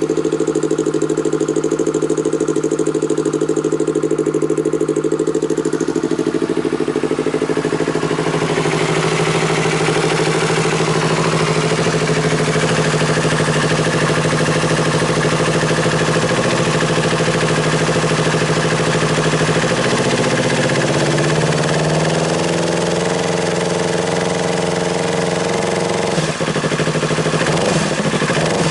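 Yamaha YZF-R25 249 cc parallel-twin engine idling steadily through an aftermarket muffler. About two-thirds of the way through its pitch rises a little and holds higher, with a brief dip near the end.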